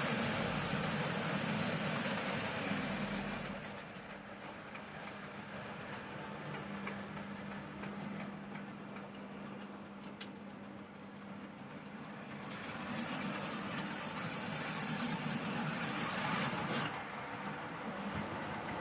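OO gauge model train running on the layout track: a steady motor hum with the rush and light clicking of the wheels on the rails, louder as it passes close in the first few seconds, fading through the middle and coming back up in the last few seconds.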